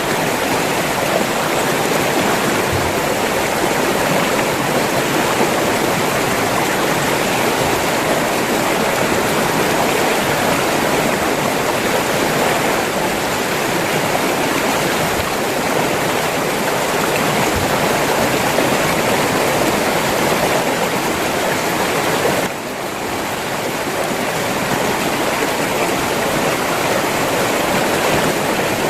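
River water rushing steadily over rocks, a continuous dense rush. It dips briefly about three-quarters of the way through, then comes back up.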